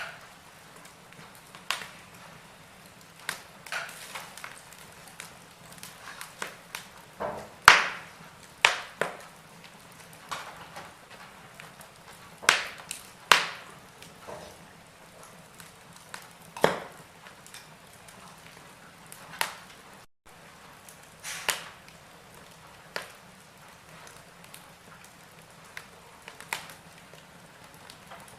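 Wood fire in a fireplace crackling: irregular sharp pops and snaps over a faint steady hiss, the loudest crack about eight seconds in.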